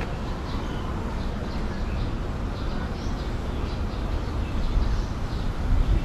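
Outdoor background: a steady, uneven low rumble with faint, repeated high chirps of birds.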